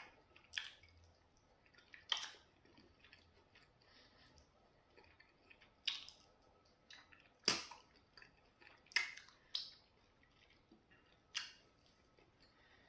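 Close-up mukbang eating sounds: a man chewing pounded yam fufu and okra soup eaten by hand, with about seven sharp wet mouth smacks one to two seconds apart, the loudest about seven and a half seconds in.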